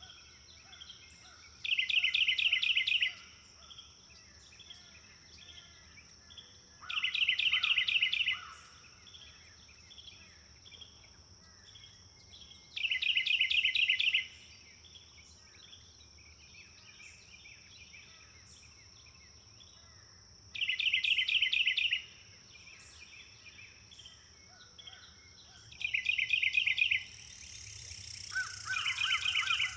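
Forest birdsong. One bird repeats a loud, rapid trill of about a second and a half every five or six seconds, with softer chirps of other birds between and a faint steady high tone. Near the end a lower, fast-pulsed trill joins in.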